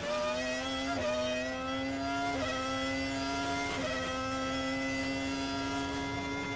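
Formula One V10 engine heard onboard, running at high revs while the car accelerates, with quick upshifts about every second and a half, each marked by a small dip in pitch.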